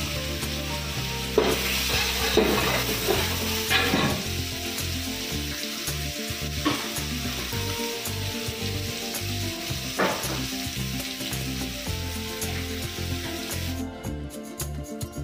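Onions and tomatoes frying and sizzling in oil in a stainless steel pot, with a flat spatula scraping and knocking against the pot several times in the first ten seconds. The sizzle cuts out about a second before the end.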